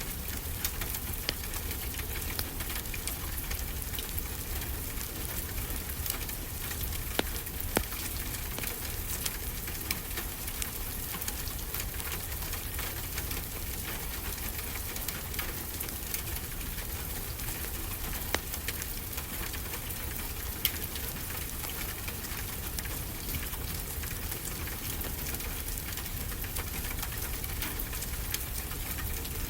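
Wood fire crackling, with scattered sharp pops and a few louder snaps, over a steady hiss and low rumble of ocean surf.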